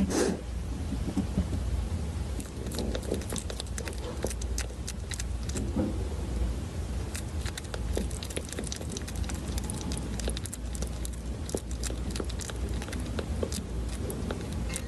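Kitten licking food off a plastic spoon: rapid, irregular wet tongue clicks over a low steady rumble.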